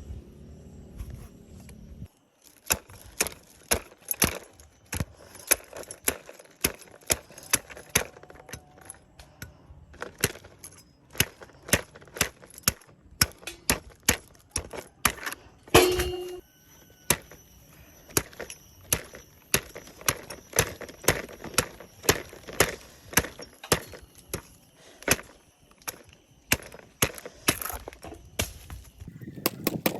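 A blade chopping into a coconut: repeated sharp strikes at an uneven pace of roughly one or two a second, starting a couple of seconds in. One louder strike about halfway through rings briefly.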